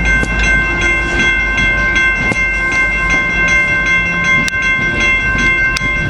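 Coaster commuter train running past and pulling away with a steady low rumble, while a bell rings over and over, about two or three strikes a second.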